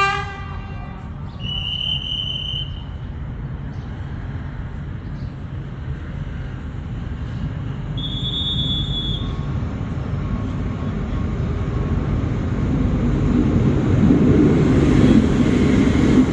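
Alsthom diesel-electric locomotive and its train rumbling, growing steadily louder, with two brief high-pitched squeals about 2 and 8 seconds in.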